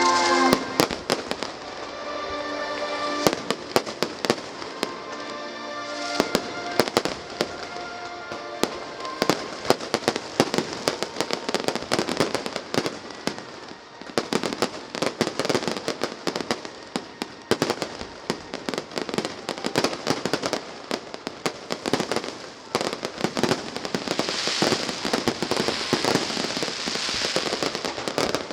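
Fireworks going off in dense, rapid volleys of bangs and crackles. Music plays under them at the start and drops away after a few seconds, and a thick, hissing crackle builds near the end.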